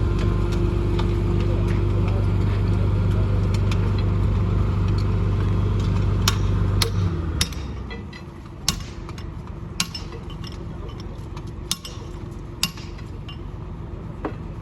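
A machine running with a steady low hum, which stops about seven seconds in. After that come a handful of sharp, scattered metallic clinks and taps, like tools striking metal.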